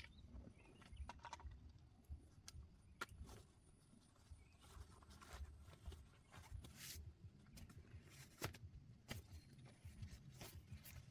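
Faint scattered clicks and light knocks over a low, steady rumble.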